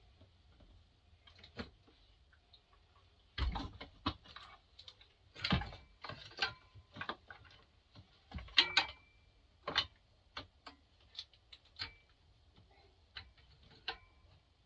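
Irregular clicks and knocks of chainsaw parts being handled and fitted together: a full wrap handle being worked onto a Husqvarna 350. The knocks come in clusters, loudest around the middle, and a few ring briefly like metal.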